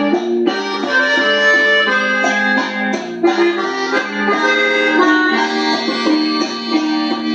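Norteño music: an accordion playing a quick melody of short notes over a steady accompaniment.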